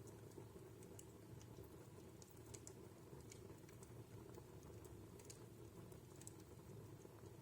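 Wood fire crackling faintly in a fireplace: scattered, irregular small pops over a low, steady rush of the flames.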